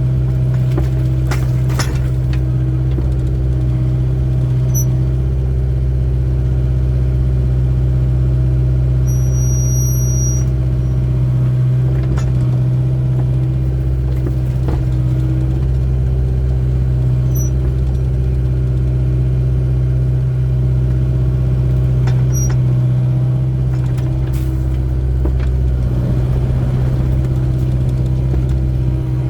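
Excavator's diesel engine running steadily while digging, with a few short high squeaks, one of them lasting over a second about a third of the way in, and an occasional knock or clank.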